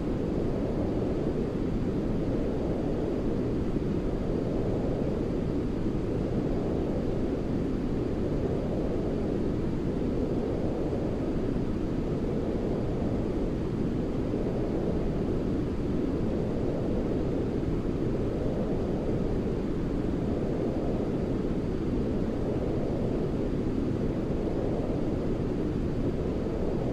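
Deep, muffled white noise for baby sleep, heavy in the low end like brown noise, running steadily and swelling and easing gently every few seconds.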